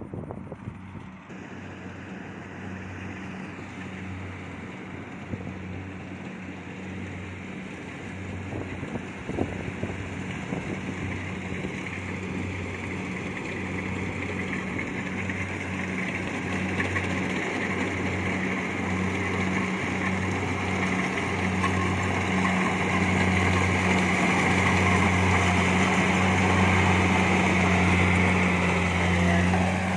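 Kubota DC70 Plus rice combine harvester running steadily in the field, its engine hum and cutting and threshing noise growing steadily louder.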